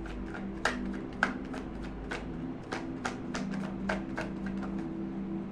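A tarot deck being shuffled by hand: irregular quick card clicks and slaps, several a second, over a steady low hum.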